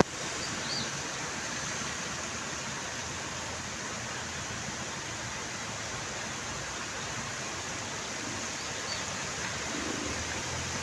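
Steady heavy rain falling, an even hiss with no let-up, with two faint high chirps, one about a second in and one near the end.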